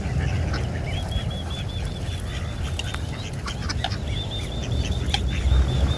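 A small bird singing a fast trill of short, evenly repeated high notes, two runs of about two seconds each, over a steady low rumble.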